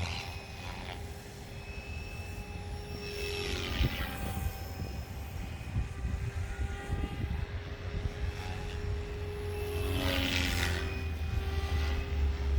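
Protos 380 electric RC helicopter in flight: a steady motor and rotor whine with two whooshing swells as it passes close, about three seconds in and again near ten seconds. Gusty wind rumbles on the microphone, heavier toward the end.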